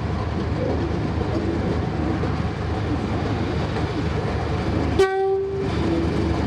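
Diesel locomotive engine running with a steady low rumble, then a short single-note blast from its horn about five seconds in.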